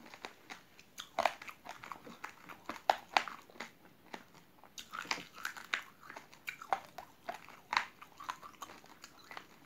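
A person chewing raw, uncooked rice grains with soft jelly, the hard grains cracking in irregular sharp crunches.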